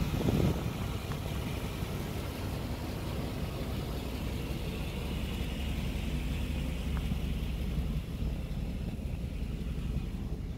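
1992 Cadillac Brougham's V8 engine idling steadily, a low even rumble. A brief louder low buffet comes right at the start.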